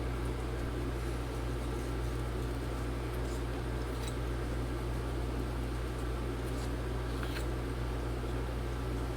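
Steady low hum under an even hiss, with a few faint short ticks scattered through it.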